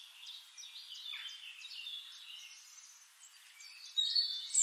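Several songbirds chirping and singing in short, high whistled phrases, growing louder about four seconds in.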